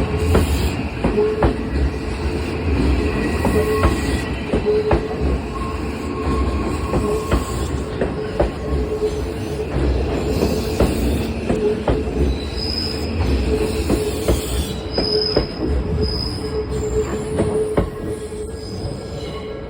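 Odakyu Line commuter train passing a level crossing: continuous rumble with regular clacks of the wheels over rail joints and a few brief high wheel squeals in the second half. The crossing's warning bell rings steadily throughout.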